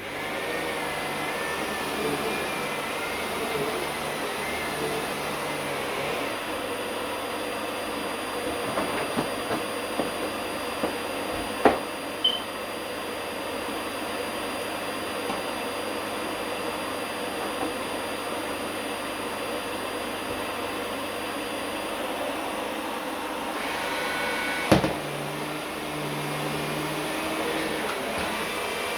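Vacuum cleaner running steadily. A scattering of sharp knocks midway and another near the end punctuate it.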